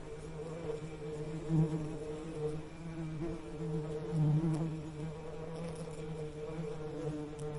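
Bees buzzing, a steady low hum that swells louder about a second and a half in and again around four seconds in.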